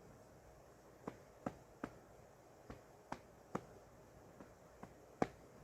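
About nine sharp, irregular ticks over a faint steady hiss.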